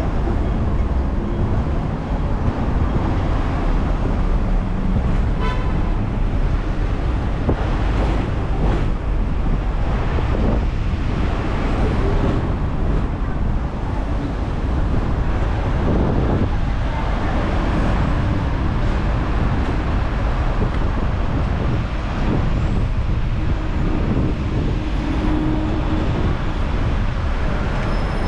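Hong Kong double-decker tram running along the street: a steady, loud rumble of the car and its wheels on the rails, mixed with road traffic.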